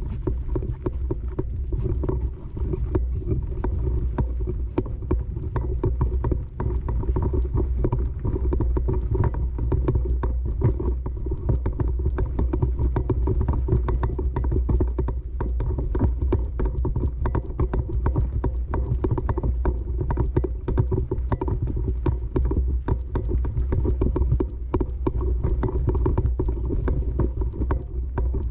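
Fat bike and its towed trailer rattling and jolting over a rough, steep trail descent: a dense, irregular clatter over a steady low rumble.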